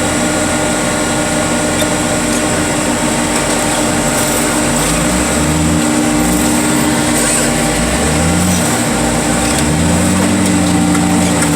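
An engine running steadily with a constant hum. In the second half a lower tone in it wavers up and down.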